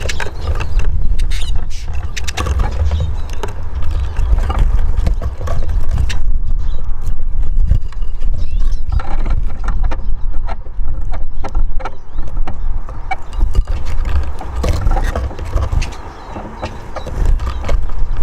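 Wind rumbling on the microphone, with many quick taps and scrabbling clicks of Eurasian siskins hopping and pecking about the bird house.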